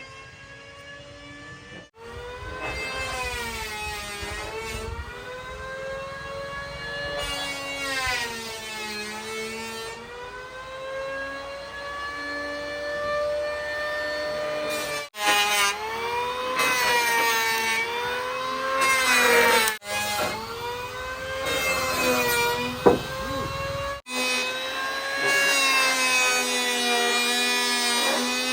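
Electric power tool cutting wood: a steady motor whine that sags and recovers in pitch as the blade bites into the timber. It breaks off sharply a few times.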